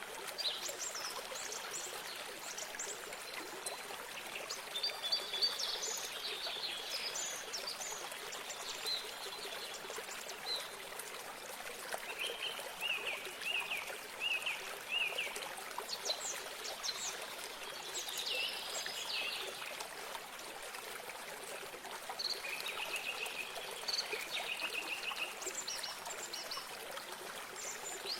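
A small stream of water running steadily, with songbirds singing over it: scattered chirps and trills, including a run of about six quick repeated notes about halfway through.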